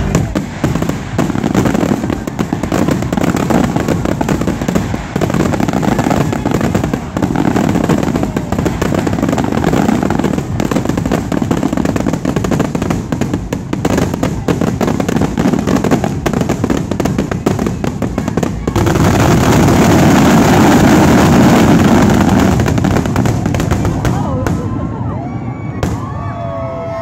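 Fireworks finale: a rapid, continuous barrage of aerial shell bursts, bangs and crackles. About two-thirds through, the separate bangs give way to a steady wash of noise that fades, and voices come in near the end.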